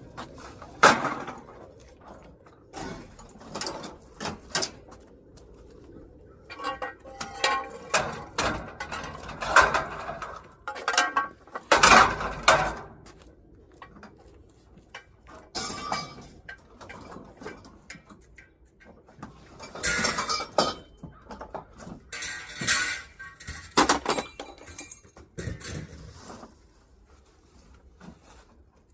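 Irregular clanks, knocks and rattles of scrap items being handled and set down while a truck is unloaded, with the loudest bangs about a second in, around twelve seconds in and around twenty seconds in.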